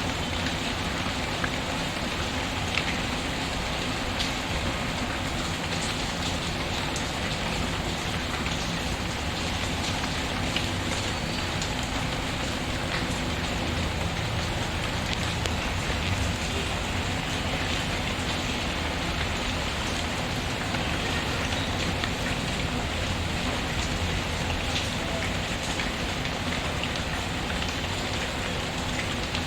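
Steady rain pattering on a surface, mixed with the occasional small crackle and pop of a wood fire in a fireplace.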